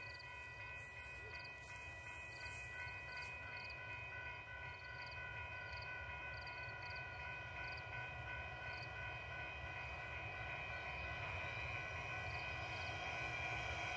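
EMD SD70M diesel locomotive leading a work train as it approaches, its rumble growing steadily louder. A steady high-pitched tone runs throughout, and a bell dings off and on.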